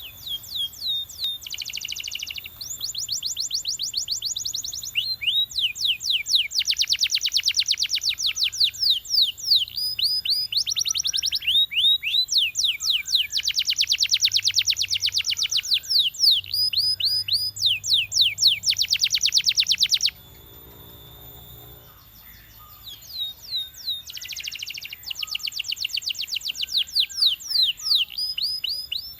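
Belgian canary singing in long, rapid trills of quickly falling high notes, phrase after phrase. It breaks off for about three seconds two-thirds of the way through, then starts trilling again.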